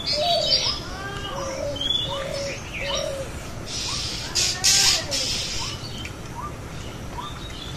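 Birds calling: a short note repeated roughly every two-thirds of a second, with lower cooing calls over the first few seconds. A brief rustling hiss about four and a half seconds in is the loudest sound.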